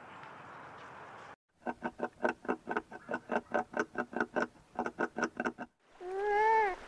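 Animal calls: a rapid run of short clicking pulses, about four or five a second for some four seconds, then near the end a single pitched call that rises and falls.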